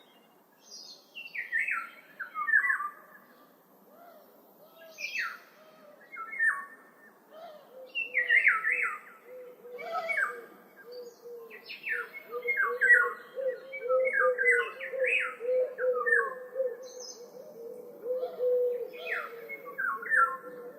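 Birdsong: repeated short phrases of quick falling chirps every second or two, over a steady lower warbling note.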